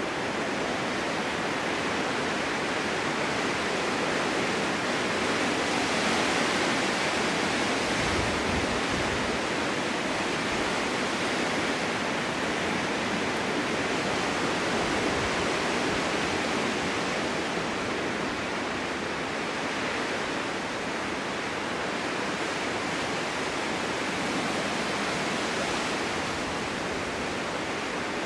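Strong winter wind blowing steadily in a snowstorm, a dense rushing hiss that swells slightly and eases off again.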